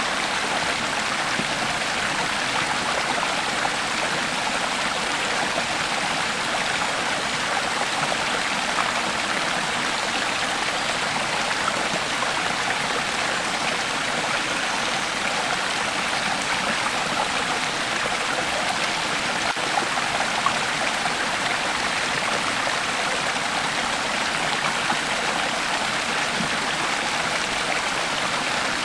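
Creek water flowing over rocks, a steady rushing and babbling with an occasional brief splash.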